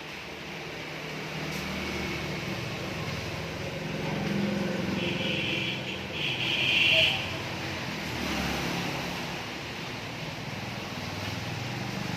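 A motor vehicle's engine running, with two short high-pitched sounds about five and six and a half seconds in, the second the loudest.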